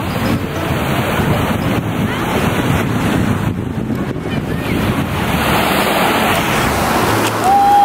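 Ocean surf washing ashore, with wind buffeting the microphone; a voice calls out briefly near the end.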